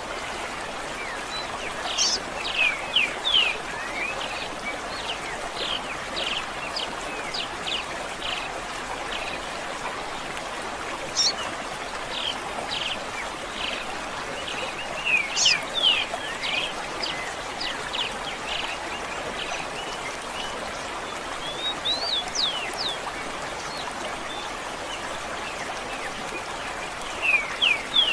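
Songbirds chirping in short, quick notes, many of them sweeping down in pitch and coming in clusters, over a steady background of running stream water.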